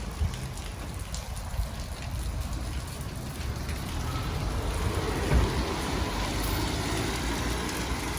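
Heavy rain falling steadily, an even hiss with a low rumble beneath it; the rain grows louder about halfway through.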